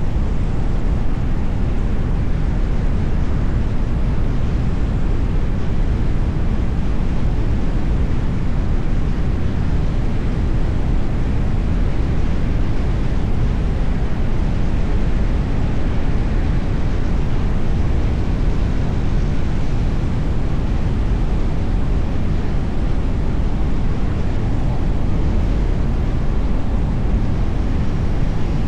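Steady low rumble of a car driving: road and wind noise, without any distinct events.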